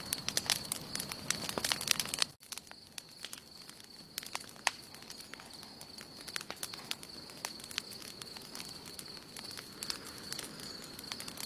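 Wood campfire burning, crackling with sharp pops. Busy and louder for the first two seconds, then the level drops abruptly and the pops turn sparser and quieter, over a faint steady high-pitched tone.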